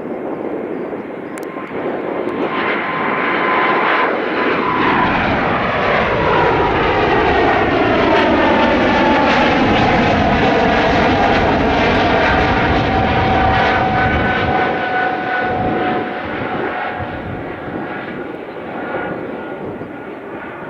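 Jet airliner's engines at take-off power passing by: the noise builds to a peak about halfway through and then eases, with a whining tone that slowly drops in pitch as the aircraft goes past.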